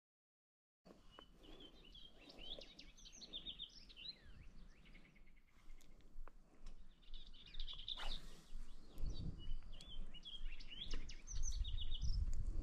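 A songbird singing in short repeated phrases of high chirps, starting after a second of dead silence, over low wind rumble that grows near the end.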